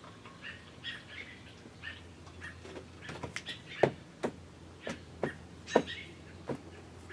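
Bird chirping in short repeated notes, with a run of sharp clicks or knocks in the middle, the loudest about four and six seconds in.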